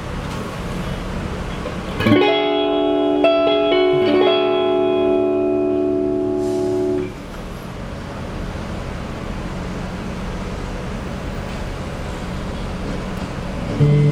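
Electric guitar played through an EGO TM2 overdrive pedal into an amp. Over steady amp hum and hiss, an overdriven chord is struck about two seconds in and changes to another chord about four seconds in. It rings until it is muted about seven seconds in, and the hum and hiss carry on after that.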